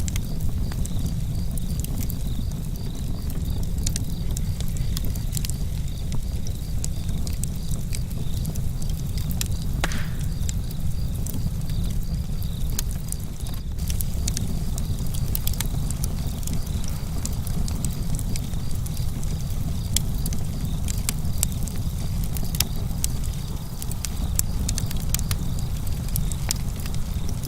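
Wood campfire burning, with a steady low rumble and frequent sharp crackles and pops from the burning wood. Crickets chirp in a steady pulsing pattern behind it.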